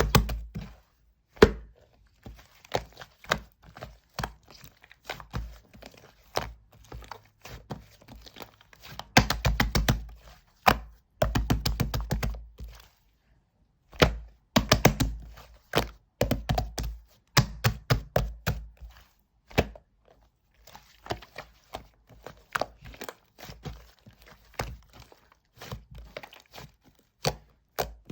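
Slime being squished, pressed and folded by hand: rapid, irregular clicks and pops in bursts, with soft thuds.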